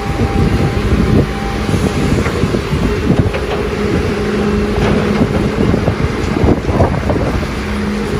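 Doosan DX300 excavator running with a steady engine hum, with frequent sharp knocks and clatter throughout.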